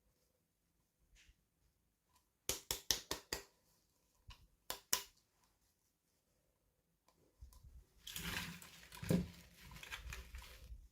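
Toy packaging being handled during unboxing: a quick run of sharp clicks and snaps, two more a moment later, then a few seconds of crinkling and rustling with a soft knock.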